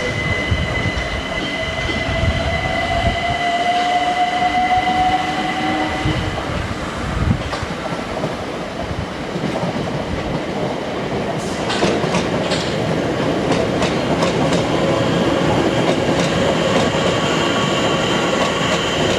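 Electric multiple-unit train running through the station platforms with a motor whine that rises slowly in pitch over a few seconds, over a steady rumble of wheels on rail. A run of sharp clicks comes from the wheels crossing rail joints about twelve seconds in.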